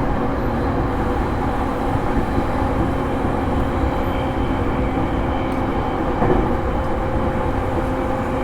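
Onboard running sound of a JR East E231 series electric train, recorded in motor car MoHa E231-1101: a steady rumble of wheels on rail with a faint steady hum.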